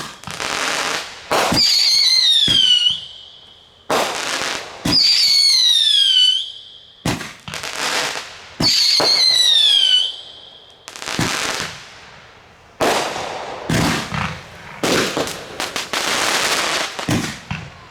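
Fireworks going off in quick succession: sharp bangs, three of them each followed by a shrill whistle that falls in pitch and then holds steady, then more bangs with crackling in the second half.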